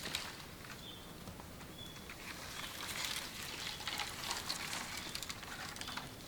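Scattered light clicks and crackles over a faint hiss, busiest in the middle, with a few short high chirps from a bird.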